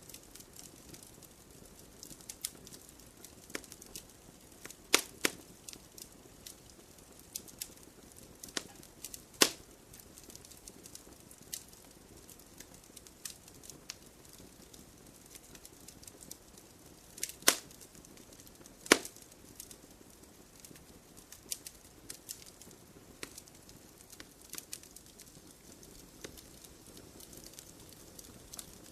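Wood campfire burning in a stone fire pit, crackling with irregular sharp pops and snaps over a soft steady hiss; a few louder pops stand out, two of them close together a little past halfway.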